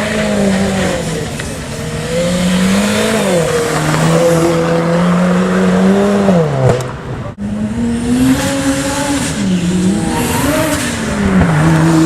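Car engine revving hard under load, its pitch climbing, holding and dropping again through the gears as a car launches up a hill climb. The sound breaks off abruptly about seven seconds in and picks up again with another run of rising and falling revs.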